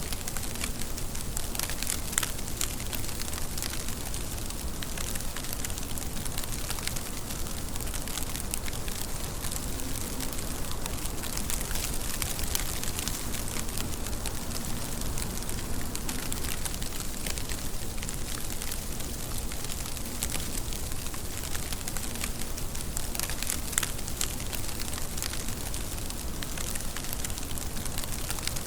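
Steady rain falling: a constant hiss with many close drops striking sharply throughout.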